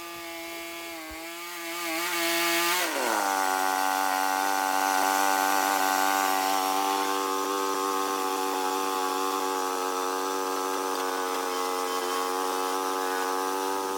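Small sawmill's engine running with the saw cutting through a log. About three seconds in the engine note drops and the sawing gets louder as it takes load, then holds steady.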